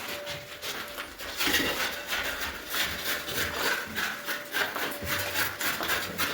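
Rhythmic hand scraping on a surface, about three strokes a second, starting about a second in.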